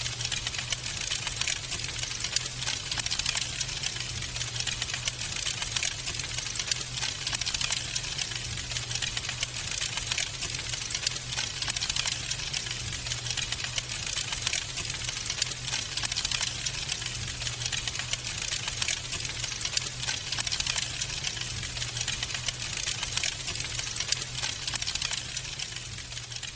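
Wood fire in a fireplace crackling: a dense, steady stream of small snaps with occasional louder pops, over a steady low hum. The sound fades down near the end.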